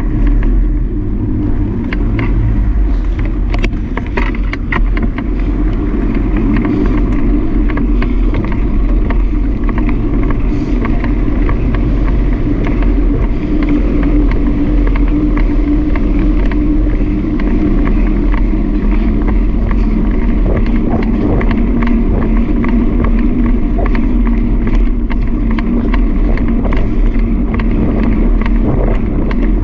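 Steady riding noise on a road: wind rushing over the microphone and a vehicle engine droning, its pitch drifting slowly up and down.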